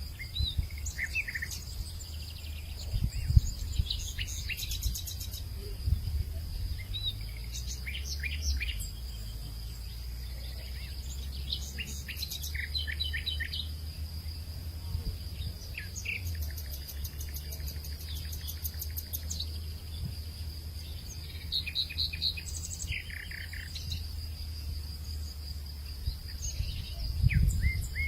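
Wild birds chirping and calling in short scattered phrases over a steady high-pitched insect drone, with a low rumble underneath that swells briefly about three seconds in and again near the end.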